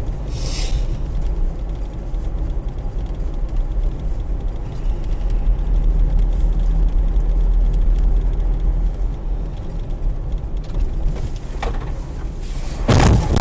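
Car road and engine noise heard from inside a moving vehicle by its dashcam: a steady low rumble. A loud, sudden burst of noise comes near the end.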